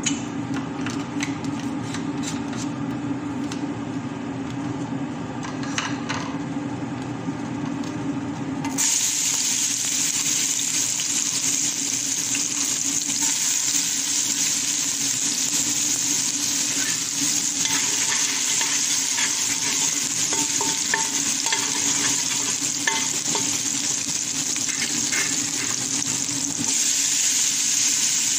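Chopped garlic dropped into hot cooking oil in a metal pot starts a loud, steady sizzle about a third of the way in, before which there is only a low hum and light clicks. A spatula stirs and clicks against the pot through the frying, and near the end the sizzle dips briefly and picks up again as chopped onion goes in to sauté with the garlic.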